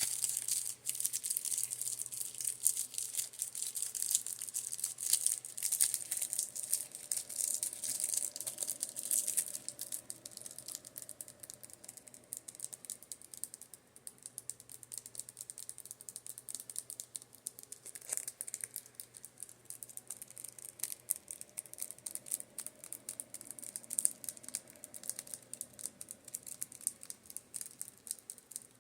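Makeup brushes being tapped rapidly, a dense run of crisp light clicks and rattles, busiest for the first ten seconds or so and lighter after. A faint low fan hum fades in and out as the fan turns.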